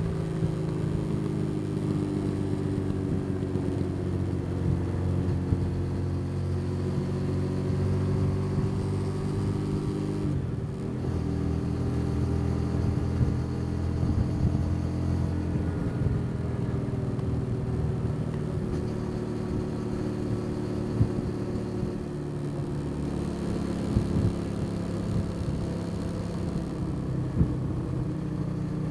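Motorcycle engine running under way, heard from the rider's position, with a steady note that dips briefly about ten seconds in before picking up again and shifts once more near twenty-two seconds.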